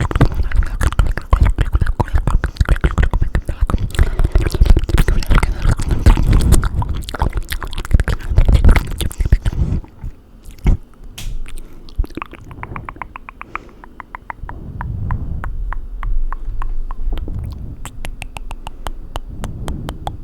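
Fast, wet mouth and tongue sounds made close to the microphone: a dense run of smacks and clicks that, about halfway through, thins to a quieter series of separate tongue clicks.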